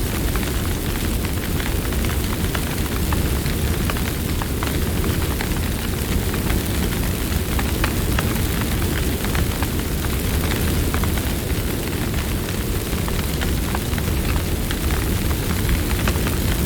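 Campfire burning: a steady low rush of flames with frequent small crackles and pops.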